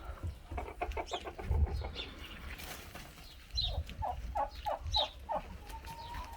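Backyard flock of chickens and turkeys calling: a fast rattling call about half a second in, then a run of about six clucks later on.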